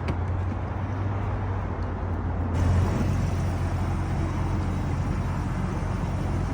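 Ford Raptor pickup's engine running steadily, a low hum that swells slightly about two and a half seconds in.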